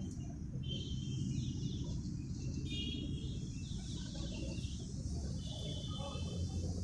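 Small birds chirping in short repeated phrases over a steady low rumble, which sounds like wind or distant traffic.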